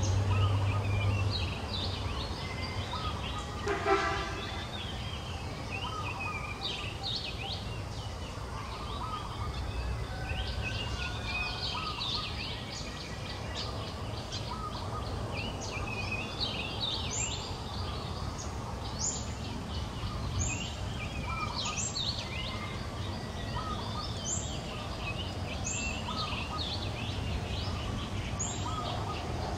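Outdoor bird chatter: many small birds chirping, with a short rising call repeated every second or two in the second half. One louder, pitched call stands out about four seconds in.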